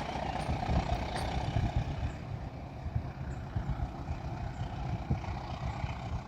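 Diesel locomotive engine running with a low, uneven rumble.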